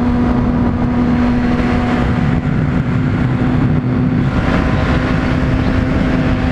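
Honda CBR600RR inline-four sport bike engine running at a steady pitch while cruising, over a constant rush of wind and road noise.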